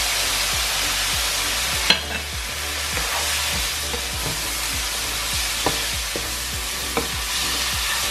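Onions, chillies and ground spices sizzling hard in a hot non-stick wok just after a splash of water went in to stop the spices burning. Partway through, a spatula stirs and scrapes the mix, with a few sharp clicks against the pan.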